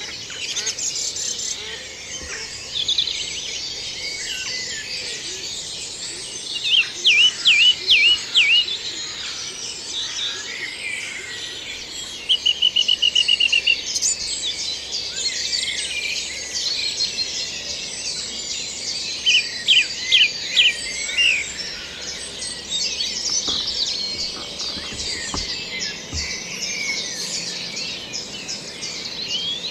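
Woodland dawn chorus: many songbirds singing at once in a continuous tangle of song. Louder phrases from nearby birds stand out: a run of downward-sweeping notes about seven seconds in, a rapid even trill around twelve seconds, and another string of loud notes around twenty seconds.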